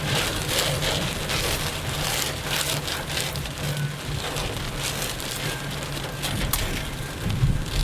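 Heavy rain drumming on a car's body and windscreen, heard from inside the car, with a steady low rumble underneath.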